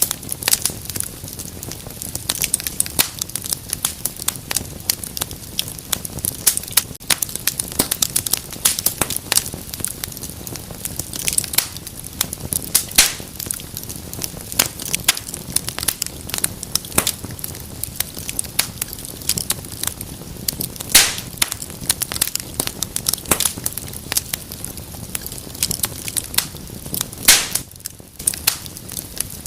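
Wood fire crackling in a fireplace: a dense, irregular run of sharp pops and snaps over a steady low hiss of burning.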